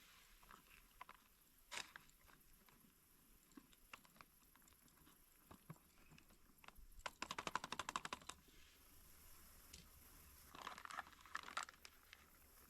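Quiet close-up handling noises: scattered soft clicks and rustles. About halfway through comes a quick, even run of rapid ticks lasting just over a second, and near the end a cluster of crinkling clicks.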